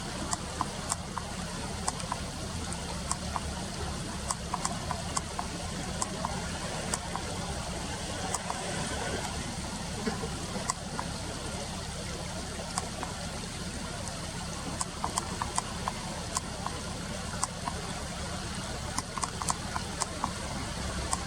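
River water trickling and splashing over the shallows, with many irregular sharp ticks over a steady low rumble.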